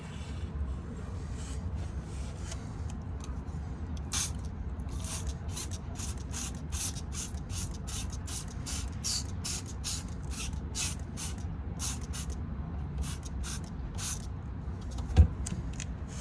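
A run of short hissing spurts, two or three a second, over a steady low rumble, with one sharp knock near the end.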